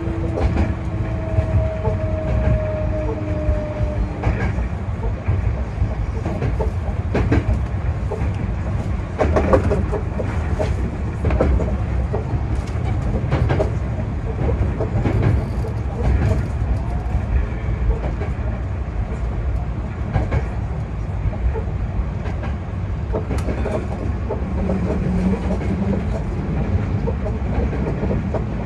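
Hankyu 8000 series electric train running, heard from the driver's cab: a steady low rumble with irregular clicks and clacks of the wheels over rail joints and points. Two thin steady tones sound for the first few seconds, then stop.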